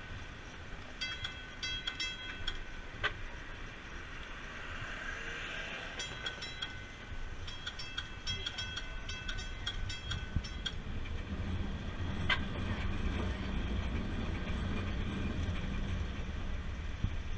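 Streetcar sounds: a bell ringing rapidly in several short runs, then a low rumble of the car's machinery that builds in the second half, with a couple of sharp clicks.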